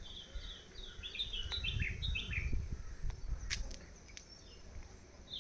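Birds chirping: a quick run of short high chirps over the first few seconds and again near the end, over a low rumble.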